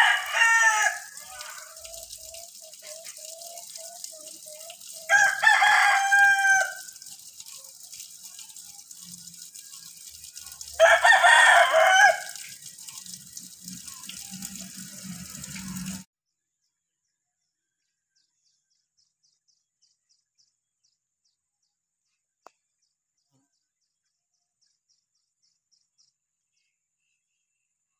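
A bird giving loud, drawn-out calls: one trailing off at the start, then two more about six seconds apart, each lasting about a second and a half. A faint steady hiss runs beneath them until the sound cuts out to near silence about two-thirds of the way through.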